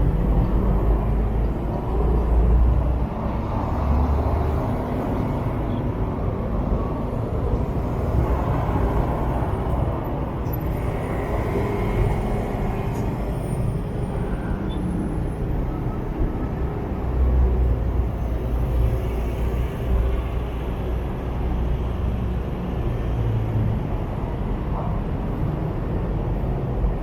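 Motorbike riding through city traffic: a steady rumble of engine, road and wind noise, heaviest in the low end and swelling unevenly.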